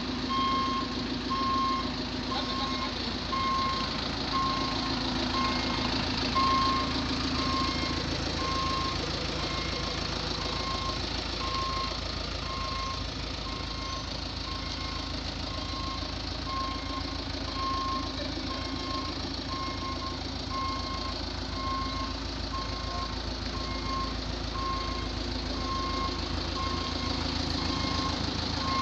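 Bulldozer diesel engine running steadily while its reversing alarm beeps in an even, repeating series of high beeps: the machine is backing up.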